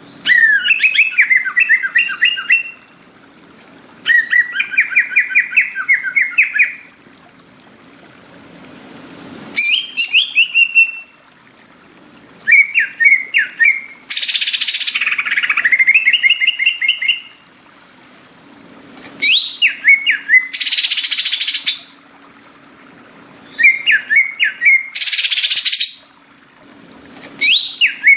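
Green leafbird (cucak ijo) singing: phrases of rapid chirping and whistled notes a second or two long, repeated every few seconds, several of them joined by a harsh rasping burst.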